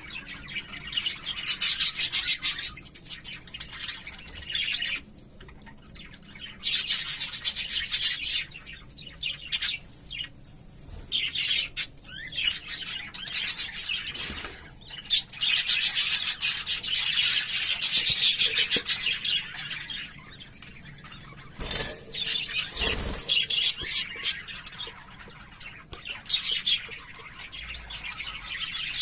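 English budgerigars chattering and warbling in repeated bouts of fast, high-pitched twittering, with short quieter gaps between the bouts. Two brief knocks come about three-quarters of the way through.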